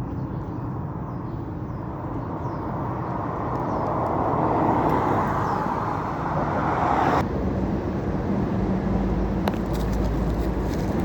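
Steady outdoor rumble and rush of passing road traffic. A rushing sound swells over a few seconds and cuts off abruptly about seven seconds in, then a deeper rumble follows.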